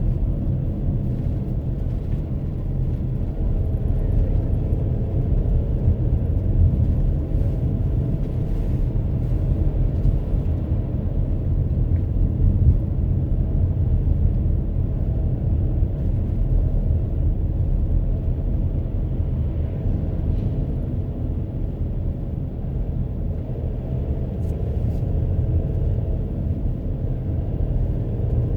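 Steady low rumble of a car on the move: engine and tyre noise heard from inside the car.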